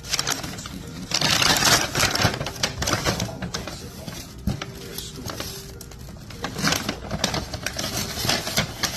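Rustling and crinkling of paper bags and packaging as items are handled, with scattered clicks and taps. The busiest rustling comes about a second in and again near the end.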